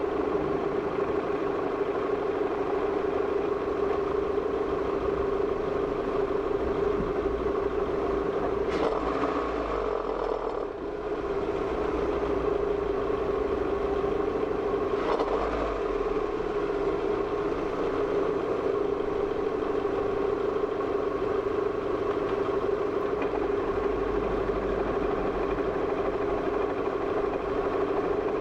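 Car engine running at low speed, a steady drone, with a faint knock about nine seconds in, a brief dip just after, and another faint knock about fifteen seconds in.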